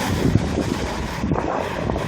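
Wind buffeting the microphone in uneven low rumbling gusts.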